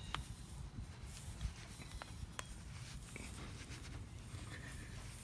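Tire plug kit reamer being forced into a puncture in the tire tread: a few faint scattered clicks and scrapes over a low rumble, with faint bird chirps.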